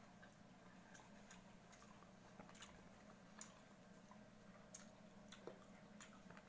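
Faint crisp chewing of java apple (makopa) fruit: scattered soft clicks and crunches at irregular intervals over a low steady hum.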